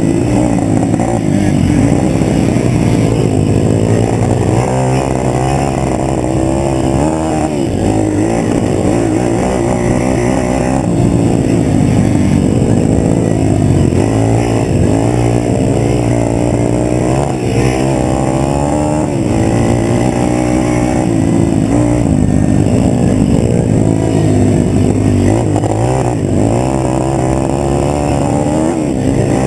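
Pit bike engine being ridden hard, its pitch rising and falling over and over every second or two as the throttle opens and closes.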